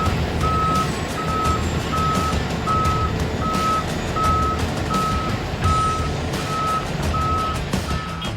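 Truck's reversing alarm beeping, a single steady tone repeating about one and a half times a second, over the low rumble of its diesel engine. The sound cuts off suddenly at the very end.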